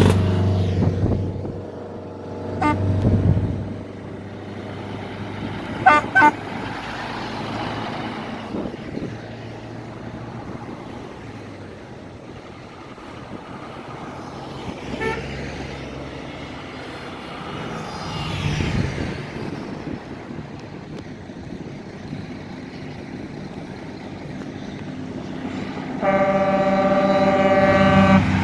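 Trucks running with engines rumbling, short horn toots about three and six seconds in, and a long, steady horn blast over the last two seconds or so.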